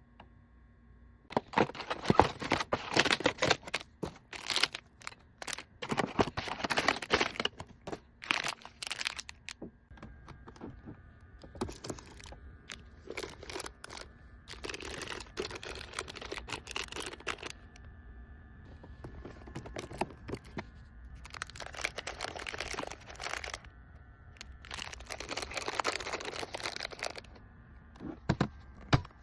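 Plastic packaging crinkling and rustling in spells of a second or two, with sharp clicks and knocks of items being handled and set in place while a mini fridge is restocked.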